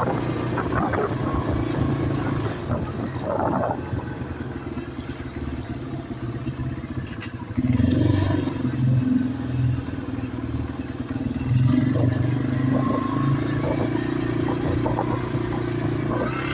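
Yamaha TW200's single-cylinder engine running steadily while the motorcycle is ridden, getting louder about halfway through.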